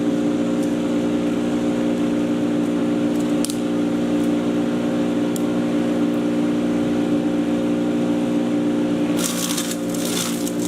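Patriot 1.5-HP electric chipper shredder running with a steady motor hum and a few light ticks. About nine seconds in, a dense crackling crunch sets in as material is chipped and shredded.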